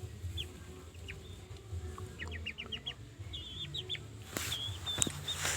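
Chicks peeping in quick runs of short, high, falling notes over a low steady rumble.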